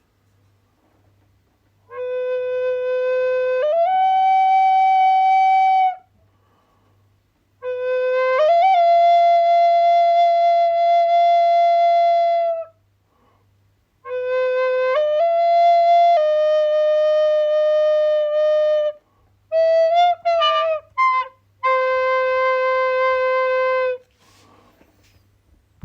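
Flute playing slow phrases of long held notes, each phrase stepping up or down between two or three pitches, with short breath pauses between them. Past the middle comes a brief flurry of quick, ornamented notes before a final held note.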